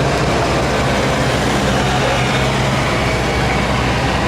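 Engine of a modified pulling lawn tractor running loud and steady, holding an even pitch.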